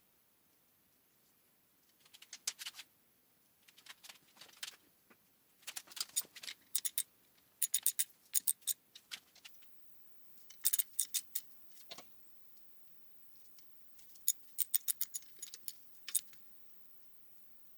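Small metal clicks in short, quick runs, several times over, as grease fittings are screwed into a VW Beetle link-pin front beam. A single duller knock comes about two-thirds of the way through.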